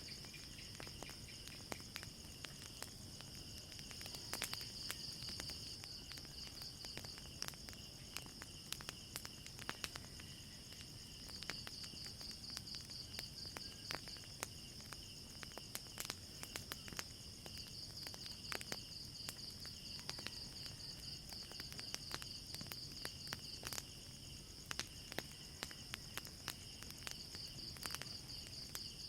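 Crickets chirping steadily in a high, pulsing trill over a wood fire's irregular crackles and pops.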